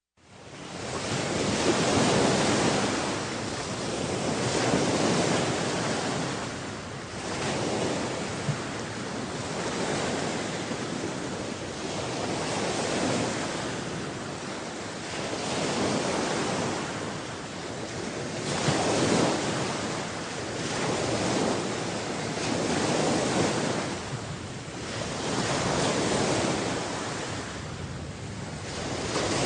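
Sea of Okhotsk surf: waves breaking and washing in, swelling and ebbing every few seconds, with wind buffeting the microphone.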